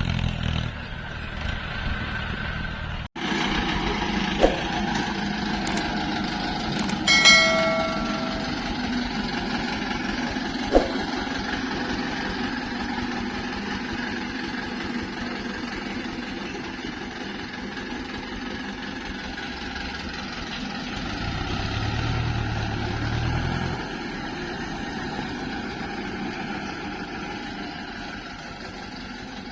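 Diesel engines of an excavator and tractors running steadily, with two sharp knocks and a brief high pitched tone about seven seconds in.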